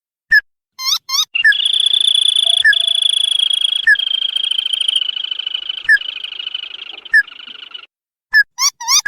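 Crake (sintar padi) lure call: short sharp notes repeat about every one to two seconds, a long rapid trill runs for about six seconds in the middle, and quick rising notes come near the end.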